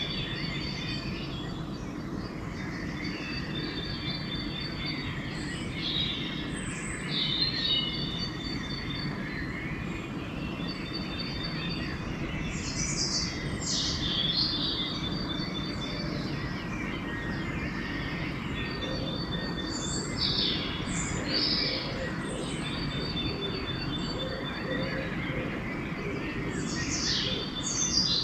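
Pre-dawn chorus of several songbirds: one bird repeats a high, rapid trilled phrase every few seconds while others give louder sweeping calls, over a steady low background rumble.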